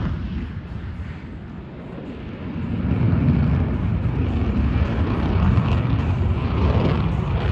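Low rumble of an aircraft's engines overhead, fading at first and then swelling again about two and a half seconds in.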